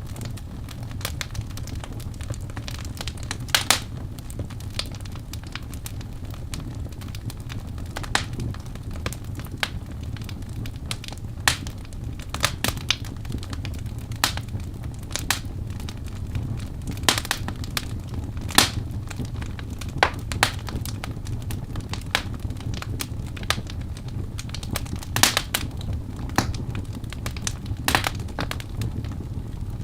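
Birch logs burning in a fireplace: a steady low rumble of flame with frequent sharp crackles and pops at irregular intervals, a few much louder snaps among them.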